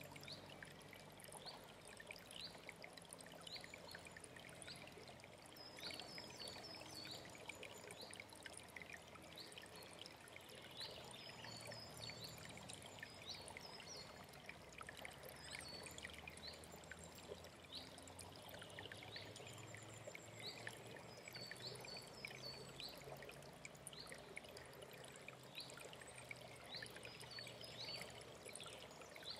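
Steady rush of a mountain stream, with small birds singing short clusters of high chirps every few seconds over it.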